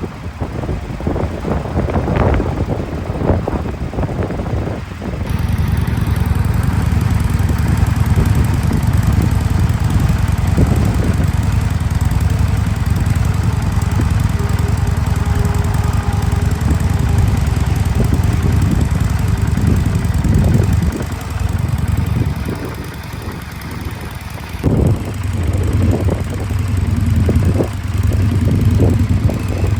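2026 Indian Scout Bobber's 1250 cc liquid-cooled V-twin running. It steps up in level about five seconds in and eases back for a few seconds in the last third.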